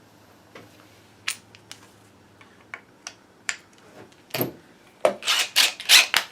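Scattered sharp metallic clicks and taps of hand tools on a winch being disassembled, then a quick run of louder clattering clicks near the end.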